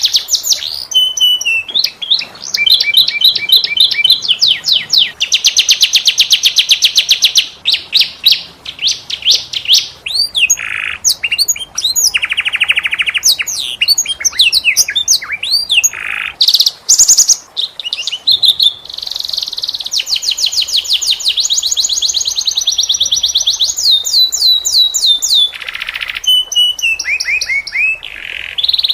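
Canary singing a long, varied song of fast rolling trills and quick sweeping high notes, with only brief pauses between phrases.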